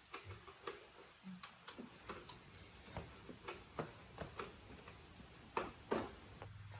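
A run of irregular light clicks and taps, two louder knocks near the end, with a low steady hum setting in just as it ends.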